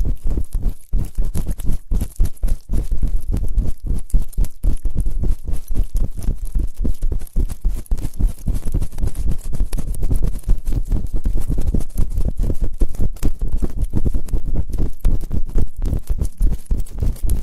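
Close-miked ear-cleaning ASMR: rapid scratching and tapping right on the microphone, a dense, continuous run of low thuds and rustles with small clicks.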